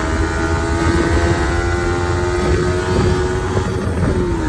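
Kawasaki ZX-10R inline-four engine running at steady revs while riding, its pitch dipping slightly near the end, with wind rumble on the microphone.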